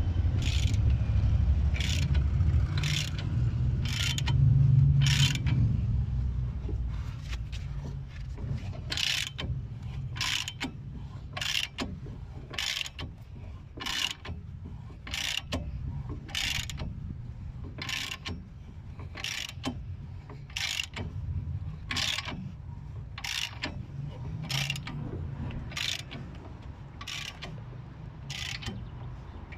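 Ratchet wrench clicking in short bursts about every two-thirds of a second as a new front wheel bearing is pressed into the hub carrier a little at a time. A low rumble runs under the first several seconds.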